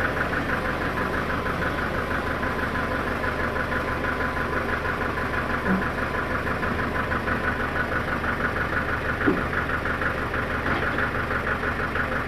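An engine running steadily with a fast, even pulsing beat. A single short knock stands out about nine seconds in.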